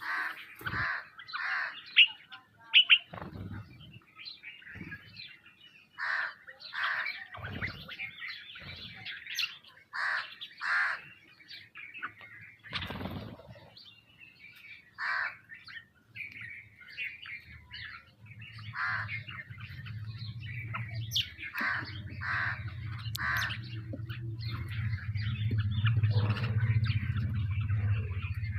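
Birds calling over and over in short separate calls, sometimes two or three a second. From about two-thirds of the way through, a low steady hum grows in underneath.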